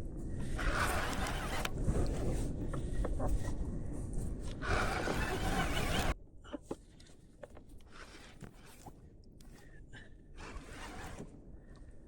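Wind buffeting the microphone with rushing water noise on an ocean kayak, heavy in the low end and swelling twice. It cuts off abruptly about halfway through, leaving faint scattered clicks and knocks.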